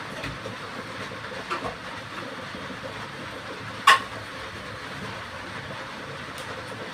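Steady hiss of fish curry cooking in a pan on the stove, with two faint clicks and one sharp clink about four seconds in.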